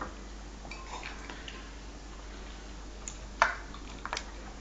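A few sharp clicks of tableware, the loudest about three and a half seconds in and two more just after four seconds.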